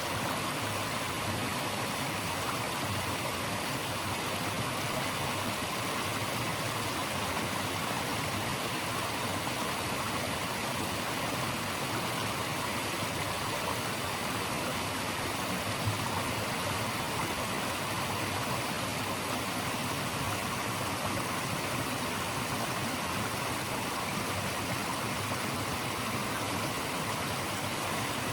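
Flowing stream water rushing steadily, an even, unbroken hiss of running water.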